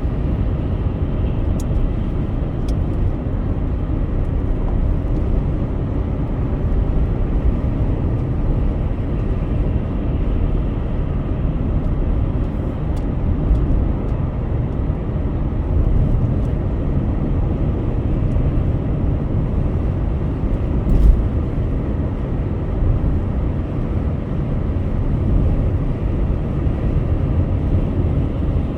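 Car driving at highway speed: steady low road and engine rumble, with one brief thump about three-quarters of the way through.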